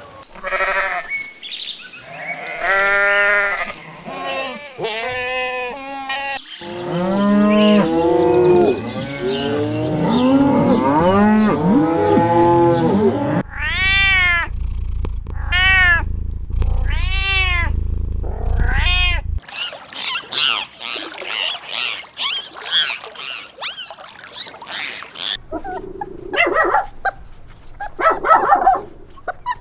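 Farm animals calling one after another: first a run of short bleat-like calls, then deeper drawn-out calls, then a series of high arching calls over a low hum, and a noisier stretch near the end.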